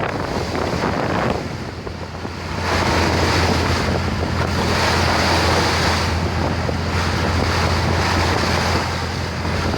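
Wind buffeting the microphone and water rushing past a moving boat, over a steady low engine hum. The wind noise drops briefly about a second and a half in, then comes back.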